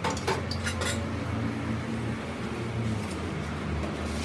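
Several light metal clinks in the first second of steel pieces knocking together, over a steady low machine hum.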